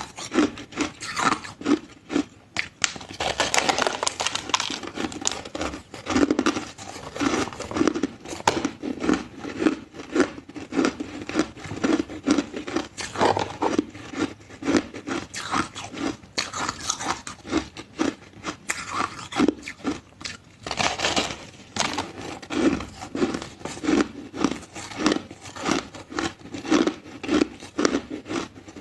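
Ice being chewed close to the microphone: a steady run of crisp crunches, about one to two a second.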